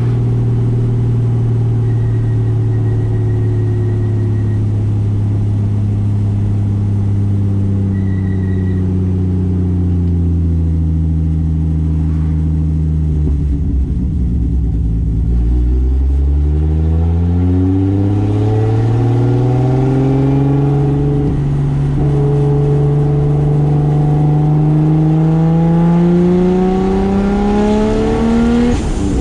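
1995 Toyota Soarer's single-turbo 2JZ straight-six running. Its pitch falls slowly for about fifteen seconds as the car comes off the throttle, then climbs steadily under acceleration. Right at the end the pitch drops suddenly, as at an upshift.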